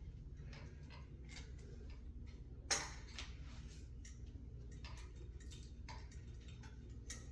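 Small irregular clicks and taps of hand work on a ceiling fan's pull-chain switch and its wires, with one louder knock about three seconds in, over a low steady hum.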